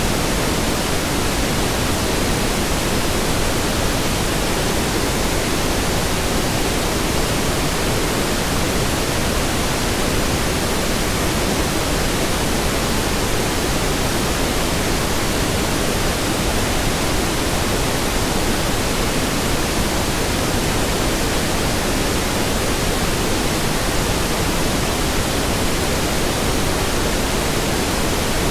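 Steady pink noise: an even, unchanging hiss across the whole range, fuller in the low end than white noise.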